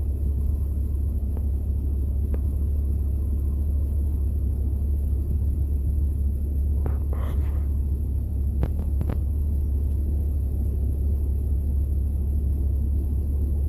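Steady low rumble, with a few faint clicks about seven and nine seconds in.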